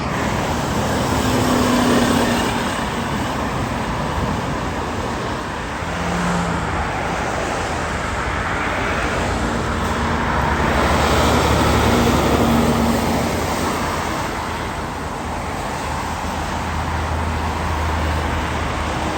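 Road traffic noise, with vehicles passing continuously. It swells louder twice, about two seconds in and again around twelve seconds in.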